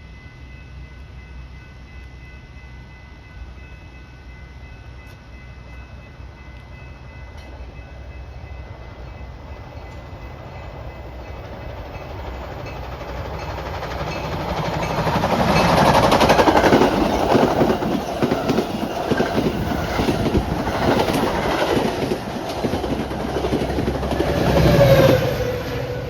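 A train approaching and passing at speed, its wheels clattering over the rail joints; the noise swells from about halfway in, is loudest for the last ten seconds, and drops away near the end.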